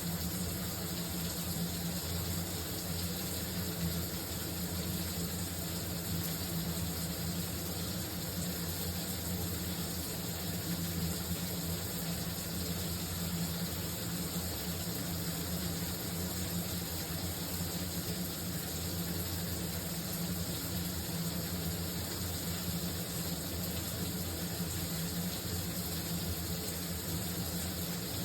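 Shower spray running steadily, a constant hiss of falling water with a low rumble under it.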